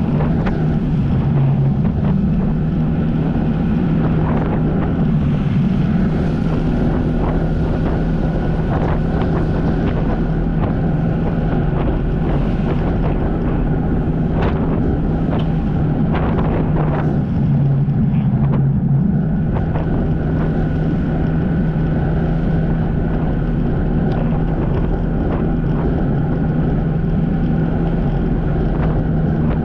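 Jet ski engine running at a steady speed, with wind on the microphone; the engine note dips briefly twice.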